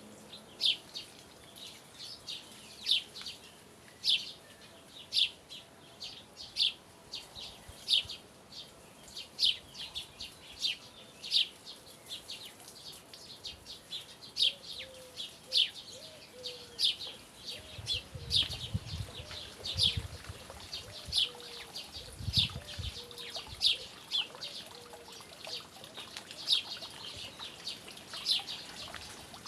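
A small bird chirping over and over: short, high, downward chirps about once a second. Through the middle a fainter, lower call repeats, and a few low rumbles come about two-thirds of the way through.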